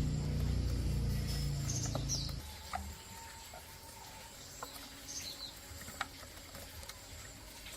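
A small petrol engine running steadily, then cut off suddenly about two and a half seconds in. Afterwards there are a few short bird chirps and some light clicks.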